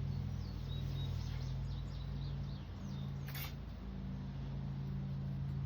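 A steady low hum with faint bird chirps over it during the first few seconds, and one sharp click about three and a half seconds in.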